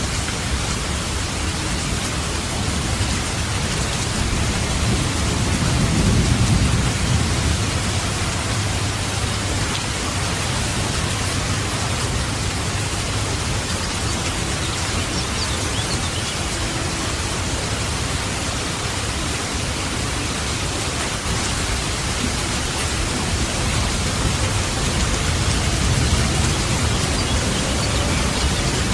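Steady rain falling, with low rolling thunder that swells about six seconds in and again near the end.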